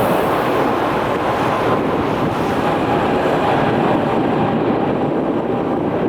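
Jet airliner's engines running loud and steady as it passes close by. The hiss fades from about four seconds in as it moves away.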